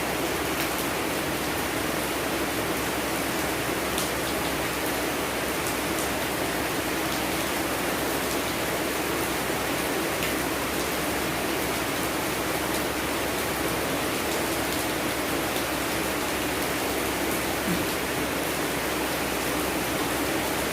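Steady rain falling, a dense even hiss with occasional sharper drop ticks.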